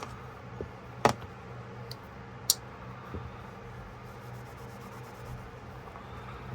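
A few sharp clicks of small hard objects being handled, the two loudest about a second and a half apart, over a steady low hum.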